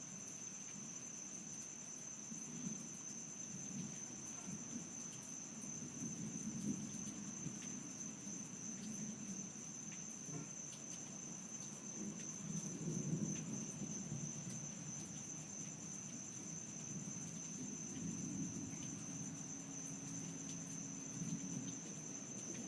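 A steady, high-pitched chorus of night insects, over which distant thunder rumbles low, swelling and fading several times and strongest about halfway through.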